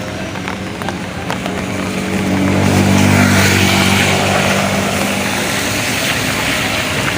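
A motor vehicle's engine running steadily, with a hiss that swells about two and a half seconds in and stays.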